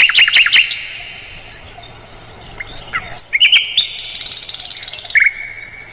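Sikatan londo flycatcher singing: a burst of quick, sharp sweeping notes at the start, then after a pause a fast high trill lasting over a second, ending on a lower held note.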